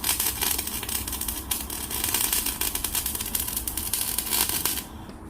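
Electric arc welding: a steady crackling hiss of the arc laying a bead on steel, stopping sharply near the end.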